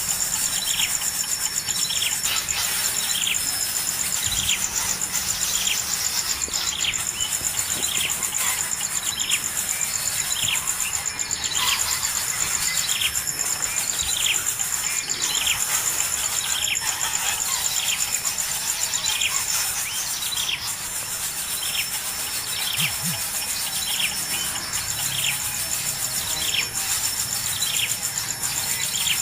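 A bird repeating short, downward-sliding call notes more than once a second, over a steady high drone of insects.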